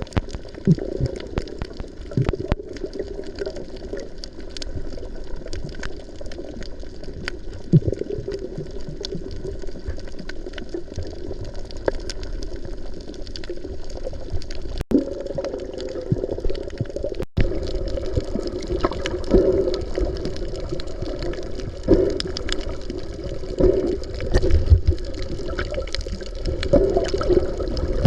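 Water heard through an underwater camera while snorkeling: muffled churning and bubbling, with scattered small clicks. The sound breaks off abruptly twice in the second half.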